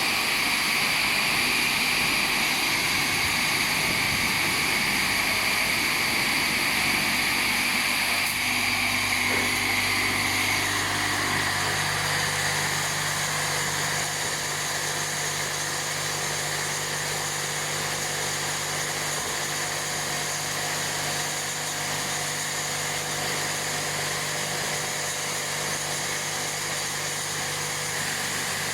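Touchless car wash machine running: high-pressure water spray hissing over a steady pump motor hum. About ten to twelve seconds in, the spray hiss drops and the hum settles on a higher note.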